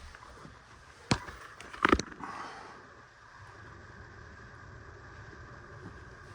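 Two sharp knocks about a second apart, then a brief scraping rustle, from hands working on the refrigerator freezer drawer's metal slide brackets and rails. A faint steady hum lies underneath.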